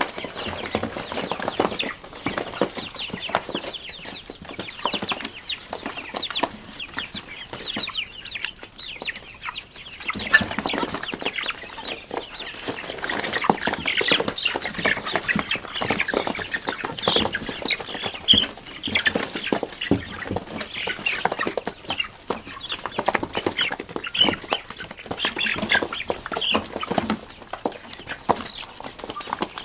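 Flock of four-week-old Cornish Rock Cross meat chickens and young hens eating in a feeding frenzy: constant short, high peeps and clucks over a dense patter of clicks from beaks pecking at the feed.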